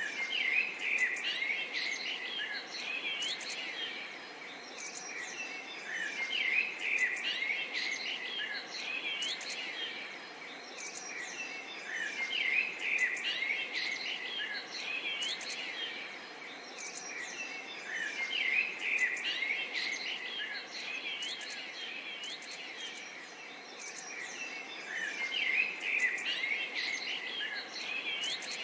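Songbirds singing and chirping in busy bouts that return about every six seconds, over a steady soft background hiss of outdoor ambience.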